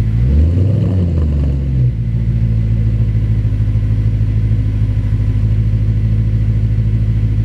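Audi B7 RS4's 4.2-litre V8 idling through a Milltek exhaust with JHM downpipes after a cold start. Its idle speed swings up and back down in the first two seconds, then holds steady.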